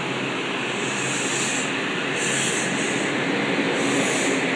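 A Metro-North electric multiple-unit train rolling slowly along the platform, growing steadily louder. Its rumble and rail noise run throughout, with three short bursts of high hiss.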